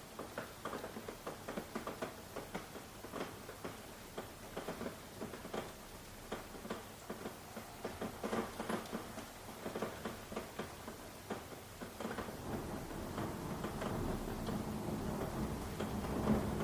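Raindrops pattering in irregular single ticks and drips on a surface. From about twelve seconds in, a steadier low rumble with a hum rises beneath the drops and grows louder.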